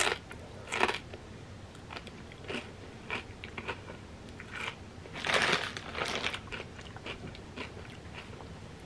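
Close-up crunching and chewing of a fried wonton chip dipped in cheesy crab rangoon dip. Sharp crunches come at the start and just under a second in, then small crackles, and a louder run of crunches a little past halfway.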